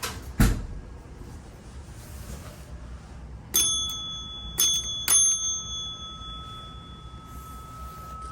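A heavy thump about half a second in, then a small bell rung three times in quick succession, the last ring hanging on for a couple of seconds before dying away.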